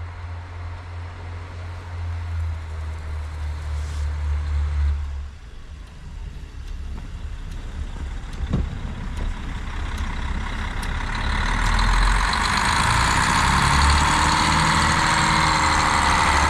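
Diesel railcar (KiHa 40) running: a steady low engine hum for about five seconds, then a rougher lower note. From about eleven seconds a louder rushing, rumbling noise with faint shifting squeal tones builds and holds.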